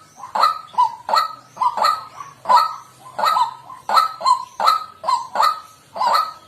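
White-breasted waterhen calling: a steady run of short honking 'kwak' notes, about two a second.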